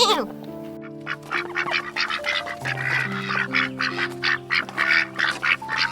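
Ducks quacking in a fast series of short calls, several a second, starting about a second in, over background music with held notes.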